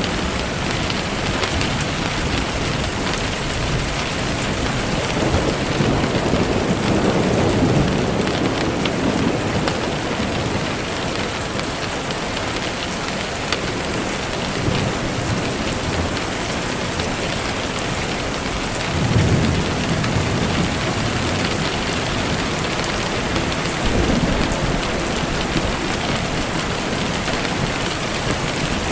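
Steady rain falling, with low rumbles of distant thunder swelling in a few seconds in, again more sharply past the middle, and once more later on.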